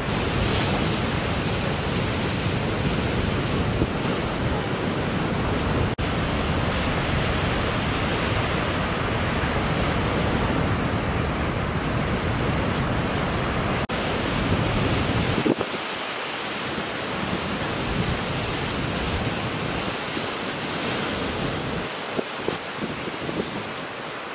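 Ocean surf washing and breaking in a steady rush, with wind buffeting the microphone. The deep rumble eases about two-thirds of the way through.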